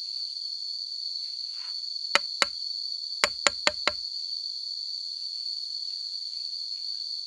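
Steady high-pitched drone of insects, with six sharp knocks over it: two about two seconds in, then four in quick succession about a second later.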